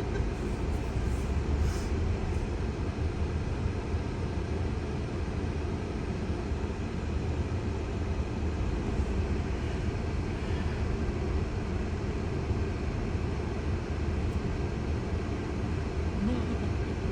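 Steady low rumble of road and tyre noise inside a slowly moving Tesla's cabin.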